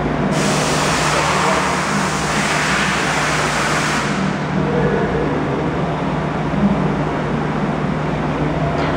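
Steady low machine hum. For the first four seconds or so a loud rushing hiss rides over it, then stops.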